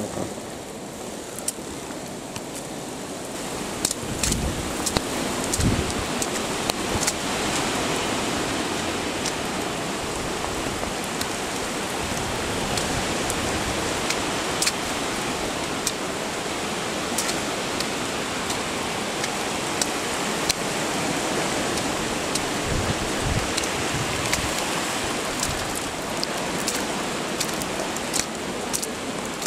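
Rain and running water: a steady wash of noise that swells a few seconds in, dotted with frequent sharp ticks and a few low thumps.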